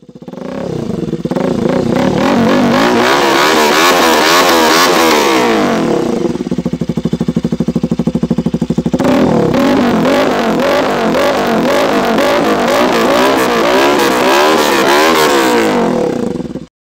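Bajaj Pulsar RS 200 single-cylinder engine through an aftermarket exhaust, revved up and down repeatedly. About six seconds in it drops to a steady pulsing idle, and about three seconds later the revving starts again.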